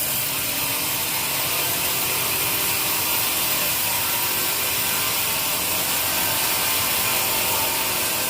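Sawmill saw cutting through teak wood: a steady, hissing cutting noise.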